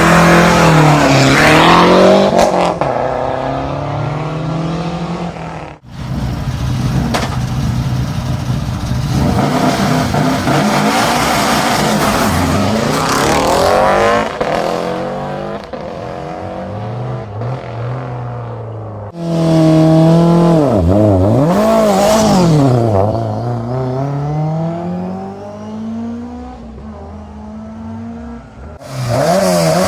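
Classic rally cars launching from a stage start one after another: a Lancia Delta Integrale 16V, then a Subaru Legacy RS Turbo, then a BMW M3 Group A. Each engine revs hard at full throttle, its pitch rising and dropping through the gear changes as the car pulls away and fades. The sound cuts abruptly from one car to the next, and another car starts up near the end.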